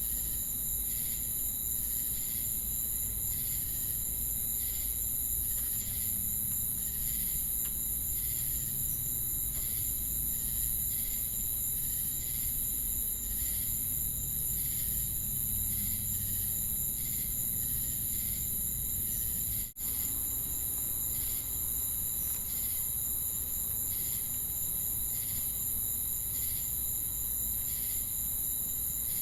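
Night insect chorus of crickets and cicadas: a steady high-pitched trill with a slower chirp pulsing about every two-thirds of a second over it. It drops out for an instant about two-thirds of the way through.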